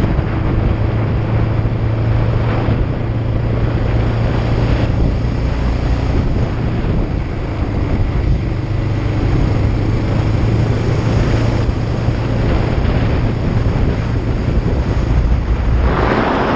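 Kawasaki Ninja 500's parallel-twin engine running at a steady speed under way, with heavy wind noise on the microphone. The wind rush grows louder near the end.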